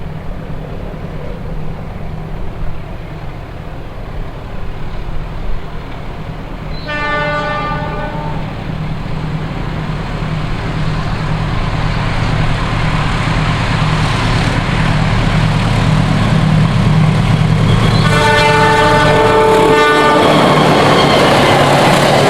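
Diesel locomotive approaching, its engine growing steadily louder, sounding its horn twice: a short blast about seven seconds in and a longer one near the end. It is the Semboyan 35 horn signal a train driver gives when approaching.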